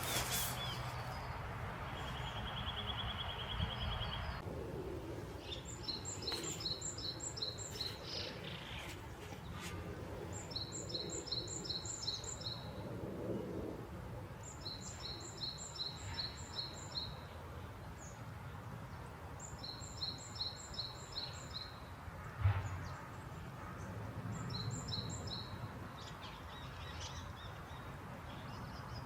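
A songbird singing: a short phrase of quick repeated high notes, given again every four seconds or so, over steady outdoor background noise. A brief buzzy trill comes early on, and there is a single low thump about two-thirds of the way through.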